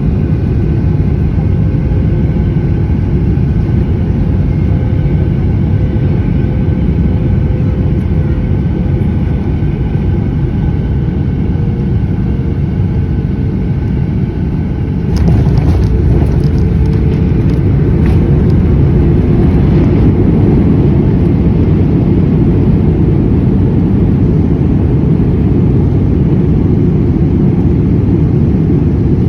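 Boeing 737-800's CFM56 jet engines and airflow rumbling steadily on the landing approach, with a faint fan whine that sags slightly in pitch. About halfway through there is a sudden step up in level with a burst of rattling and knocks, typical of touchdown, followed by a heavier steady runway rumble.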